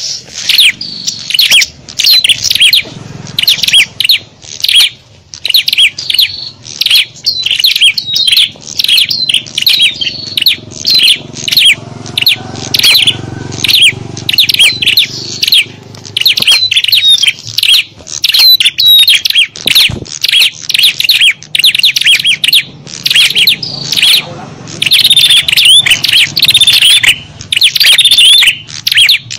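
Small songbirds chirping and twittering in rapid, dense, overlapping bursts, high-pitched and loud with only short pauses: a recorded lure call used to draw small wild birds.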